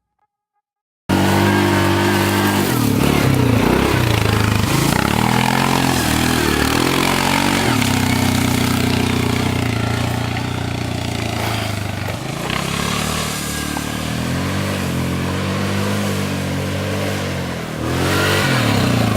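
Small off-road engine revving, its pitch rising and falling again and again, starting abruptly about a second in.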